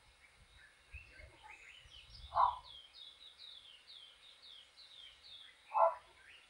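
Wild birds calling: a quick series of high down-slurred notes, about three a second, and two short louder, lower calls, one a little over two seconds in and one near the end.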